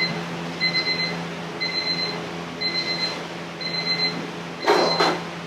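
An electronic kitchen timer beeping, one high short beep about once a second, over a steady low hum. Near the end, two brief clattering noises are the loudest sounds.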